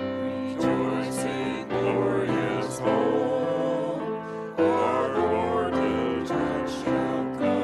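Church worship music: voices singing a song over piano or keyboard accompaniment with a steady beat.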